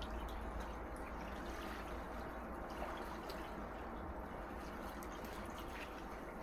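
Gentle sea waves washing and lapping on the shore: a steady wash of water with small scattered drips and trickles.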